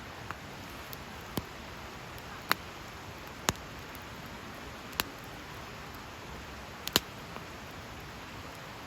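Wood fire crackling: a steady low hiss with sharp, irregular pops about once a second, loudest about two and a half, three and a half and seven seconds in.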